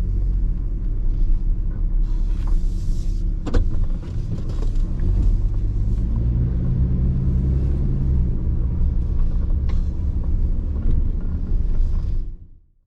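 GMC Sierra pickup truck driving off, a steady low engine and road rumble with a couple of sharp clicks; it fades out near the end.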